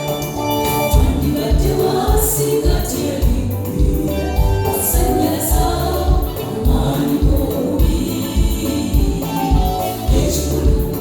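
Gospel choir singing with instrumental backing and a steady, regular beat.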